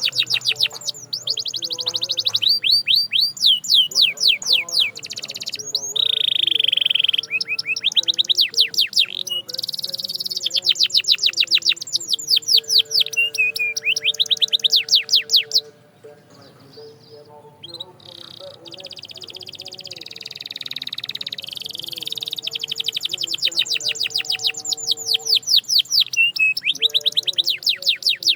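Canary singing: rapid trills of quick, evenly repeated downward-sweeping high notes, alternating with long held whistled notes. The song softens briefly about halfway through, then picks up again in fast trills.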